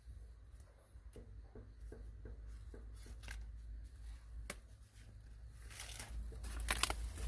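Faint rustling and crackling with scattered light taps and clicks over a low steady rumble, the rustling growing louder near the end.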